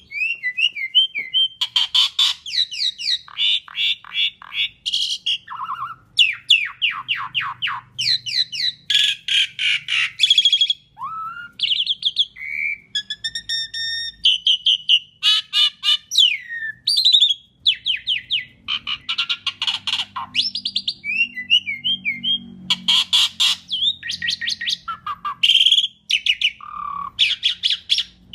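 Asian pied starling (jalak suren) singing a long, varied song without pause. Quick runs of short rattling notes are mixed with chirps and a few clear whistled notes.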